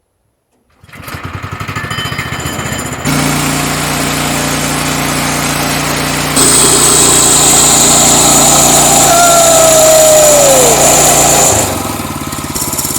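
Small gasoline engine of a portable bandsaw mill running, stepping up in level about two seconds in and again about six seconds in, when a high steady whine joins as the band blade cuts; it drops back near the end.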